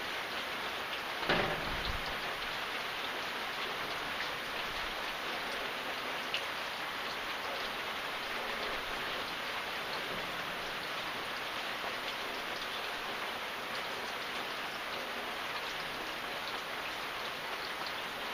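Steady rain falling and pattering on surfaces, with one short, louder thump about a second in and a faint tick a few seconds later.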